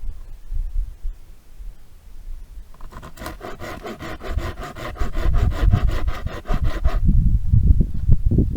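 Wood being cut by hand with a saw or rasping tool in quick, even, scraping strokes, starting about three seconds in. The strokes break off briefly near the end for a few low knocks, then start again.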